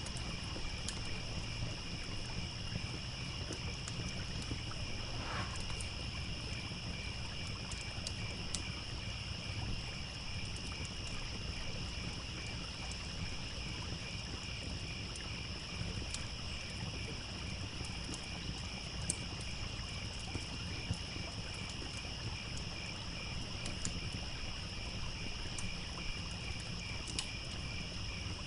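Crickets chirring in a steady pulsing chorus over the low rush of a babbling stream, with scattered sharp crackles and pops from a wood campfire.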